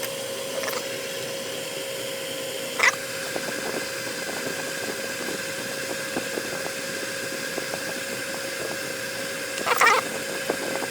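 Metal hand tools and small drain parts clinking against each other, with two sharp ringing clinks, one about three seconds in and one near the end, over a steady mechanical hum.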